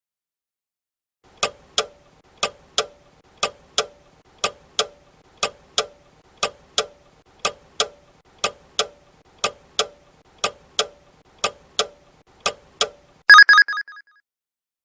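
Countdown-timer clock sound effect ticking in a tick-tock pair once a second for twelve seconds, the answer time for a quiz question. It ends in a short, loud alarm-bell ring of several rapid strikes, signalling that time is up.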